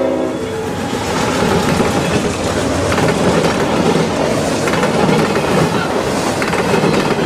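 Diesel freight train rolling past, a steady rumble with wheels clattering over the rails; its locomotive horn chord trails off in the first half second.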